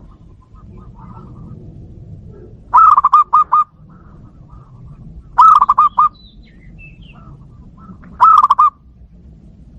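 Zebra dove (perkutut) cooing: three loud phrases of quick staccato notes, about two and a half seconds apart, with fainter calls between them.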